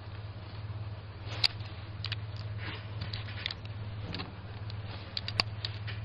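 Scattered sharp clicks and rattles of things being handled and moved, over a steady low hum.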